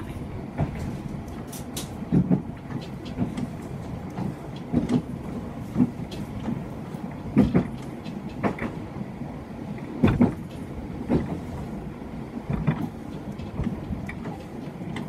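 Chikuho Electric Railway electric train running along the track, heard from inside the passenger car: a steady rumble of wheels on rail with irregular sharp knocks and clacks from the track.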